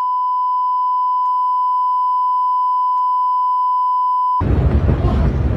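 A steady, single-pitched electronic beep tone, a pure sine near 1 kHz, held unchanged for about four and a half seconds. It cuts off suddenly and gives way to a loud noisy rush.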